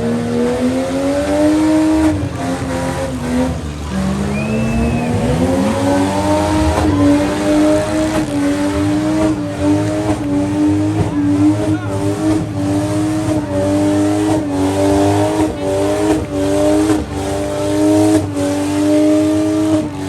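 Demolition derby van, truck or SUV engine revving hard at high speed, its pitch surging up and down about once a second, with tyres squealing and sharp crashes of vehicles hitting one another.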